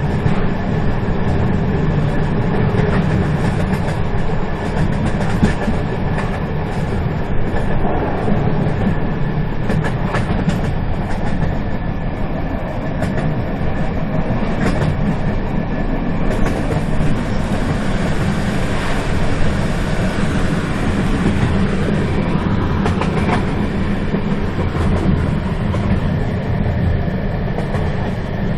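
Moving train running steadily, a continuous low rumble with occasional clicks of the wheels over the track.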